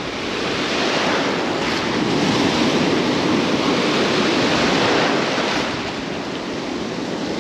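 Surf washing in the shallows, with wind on the microphone; the wash swells for a few seconds in the middle and then eases off.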